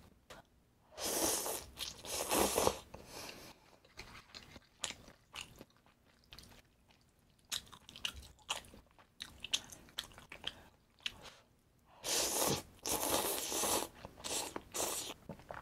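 A person biting and chewing food with loud crunching. There are two long stretches of crunching, about a second in and again near the end, with short chewing clicks between them.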